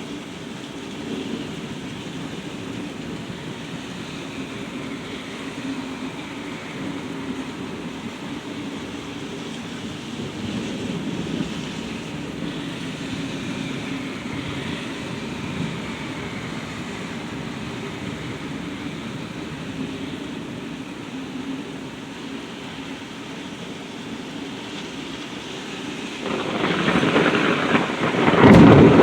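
Steady rain falling in a severe thunderstorm. About three seconds before the end, a thunderclap breaks out and rises sharply in loudness.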